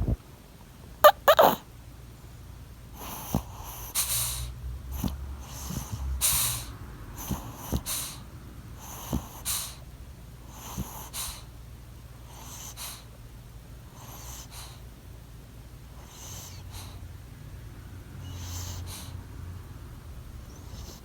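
A sleeping dog snoring, with snuffly, rasping breaths, often in pairs, every second or two over a low rumble; the breaths grow fainter in the second half. A loud sharp snort comes about a second in.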